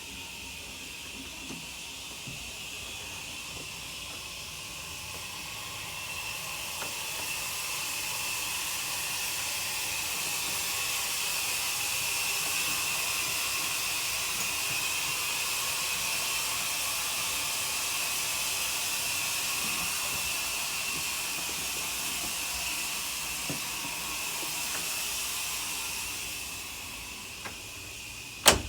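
A running shower's spray, a steady hiss that grows louder over several seconds, holds, then fades away again near the end. One sharp click comes just before the end.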